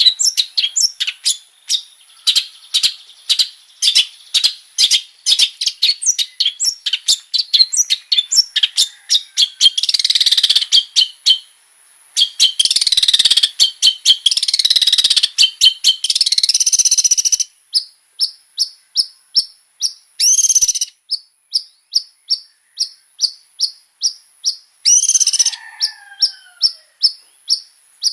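Long-tailed shrike (cendet) singing: a rapid series of short, sharp chirps, broken by two long, jumbled warbling passages about ten and thirteen seconds in, then more chirp runs with short bursts. A steady thin high whine runs underneath.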